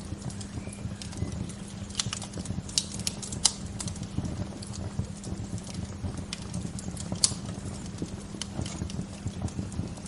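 Bonfire crackling: irregular sharp pops and snaps of burning wood over a steady low rumble, with a few louder pops about three and a half and seven seconds in.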